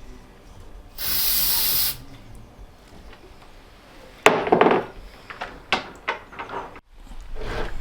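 A spray hiss lasting about a second, starting about a second in. About four seconds in comes a sharp knock, the loudest sound, followed by several lighter clicks and knocks of wood and tools being handled.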